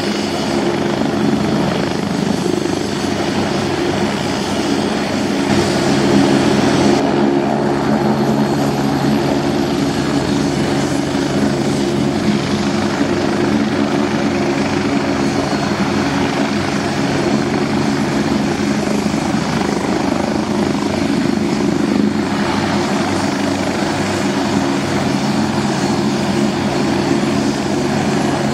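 Leonardo AW109 Power twin-engine helicopter running: rotor and turbine noise making a steady, loud drone of several low tones under a hiss. The upper hiss eases slightly about seven seconds in.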